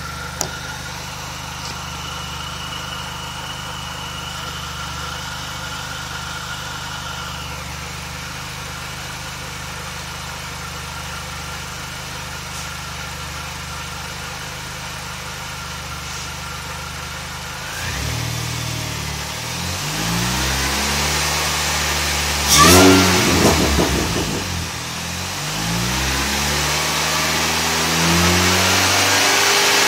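2006 Mini Cooper S supercharged 1.6-litre four-cylinder, fitted with a 17% reduction supercharger pulley, idling steadily with a thin high whine. From a little over halfway through it is revved several times, the pitch rising and falling with each rev; the loudest rev comes about two-thirds through.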